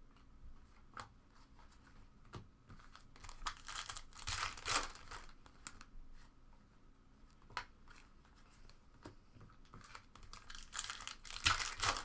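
Foil trading-card pack wrappers being torn open and crinkled, in two rustling bursts about three seconds in and again near the end, with light clicks of cards being handled in between.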